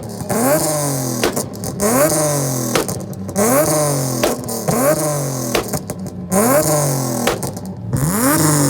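A performance car's engine revved over and over, a quick blip about every three-quarters of a second, each rev climbing fast and dropping back, with sharp exhaust pops as the revs fall.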